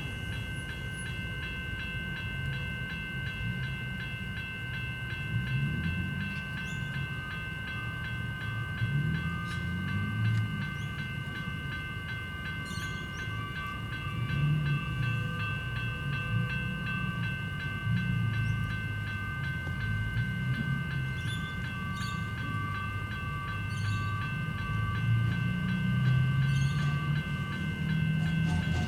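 Level crossing electronic bells (General Signals e-bells) ringing steadily while a train rumbles through the crossing, with scattered clicks from its wheels on the rails.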